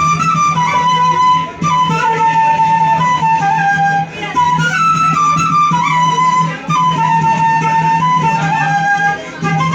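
A band playing a song live: a melodic lead line repeats a short phrase over a held low note, with brief breaks about every two and a half seconds.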